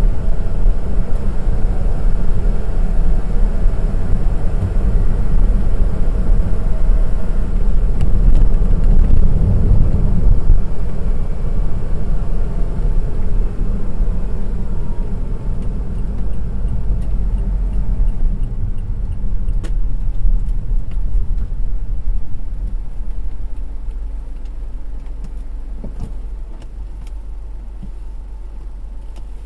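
Car driving on a road: low engine and road rumble that gradually dies down over the last dozen seconds as the car slows, with a few sharp clicks in the later part.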